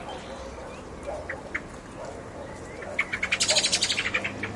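Steady rain with a bird calling over it: a couple of short chirps, then about three seconds in a loud, rapid trill of sharp notes, roughly ten a second, lasting about a second and a half.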